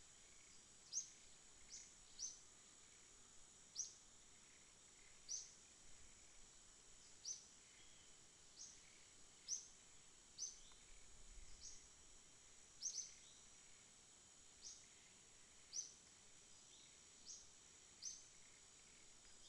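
Faint nighttime insect ambience: a steady high-pitched drone with short, sharp chirps repeating roughly once a second.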